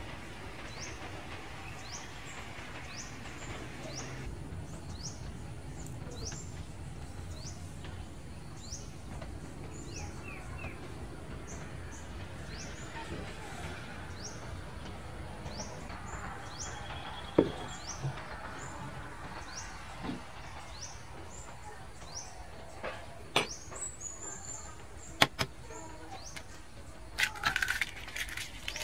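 A small bird chirping over and over, a short high call about once a second, over a steady background hum. In the second half, sharp clicks and knocks of cans and containers being handled on a wooden table, with a quick clatter near the end.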